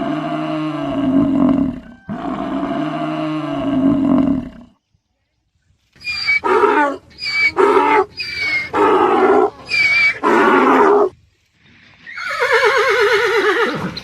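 Several animal calls in succession: two long, low calls, then a run of about five short calls after a brief pause, then one call falling in pitch near the end.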